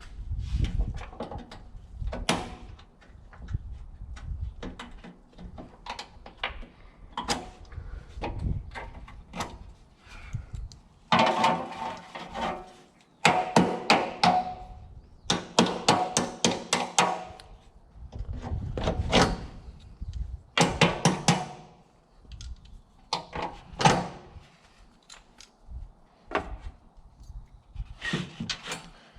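Irregular metallic clanks, knocks and clicks of hand tools and parts being handled while dismantling a Bobcat 753 skid steer's engine bay, some strikes ringing briefly.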